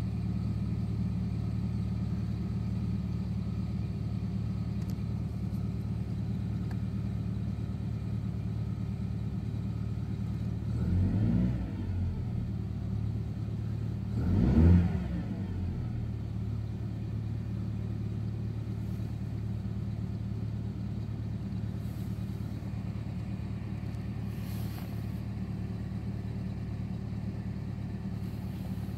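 BMW 318i's 2.0-litre four-cylinder petrol engine idling steadily at about 1,000 rpm, heard from inside the cabin, still cold after its first start of the morning at −17 °C. Twice in the middle the sound swells briefly, rising and falling in pitch, the second time louder.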